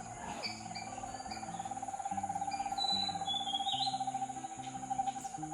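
An animal's long trill, rapidly pulsing on one steady pitch and held for several seconds, with a few short high bird chirps above it.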